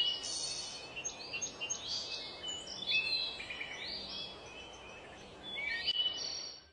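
Songbirds chirping and singing, a busy run of short whistled notes, slurred glides and trills over a faint steady hiss. The sound cuts off suddenly at the end.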